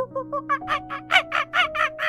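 A fast run of short, chirpy animal calls, about five or six a second, growing louder about half a second in, over soft background music.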